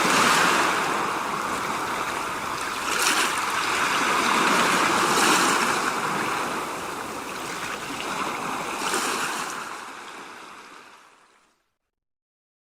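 Steady rushing noise, like running water, with a few louder swells. It fades out about ten seconds in and gives way to silence.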